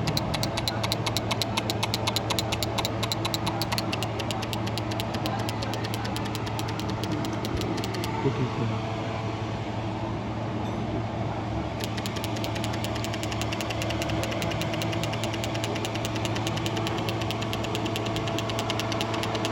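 An engine running steadily with a fast, even ticking over a low hum; the ticking dies down for a few seconds in the middle, then returns.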